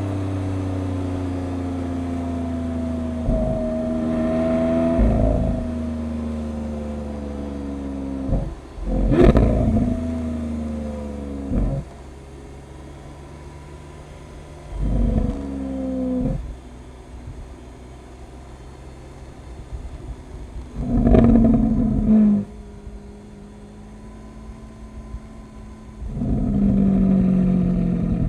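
Lamborghini Aventador LP700-4's V12 engine running at a fast idle whose pitch slowly falls over the first several seconds, then settling to a lower idle. It is blipped with the throttle several times, each rev rising and dropping back quickly.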